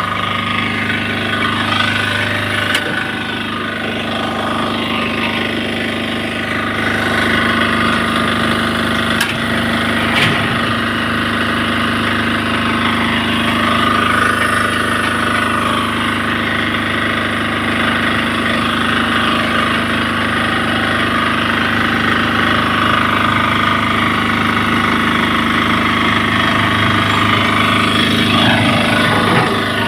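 Generator engine running steadily with a constant hum.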